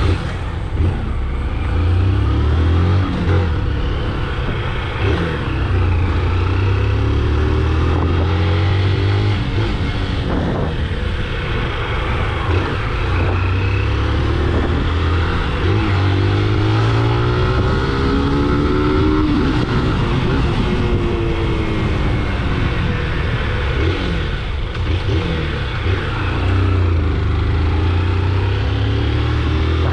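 Motorcycle engine running while being ridden, its pitch rising and falling repeatedly as it speeds up and slows down, over a steady low rumble.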